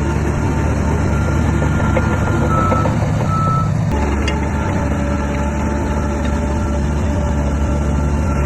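Heavy diesel earthmoving machine running steadily with a reversing alarm beeping over it. The engine note shifts abruptly about four seconds in.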